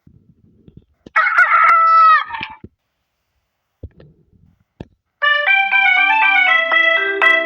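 A rooster crows once about a second in, one long call that drops in pitch at the end. About five seconds in, a bright keyboard melody with a bass line starts.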